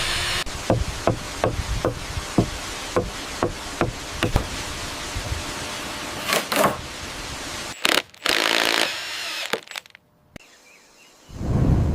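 A run of regular knocks, about two or three a second, of tools striking wood. They are followed by a few short noise bursts and hiss that cut in and out abruptly.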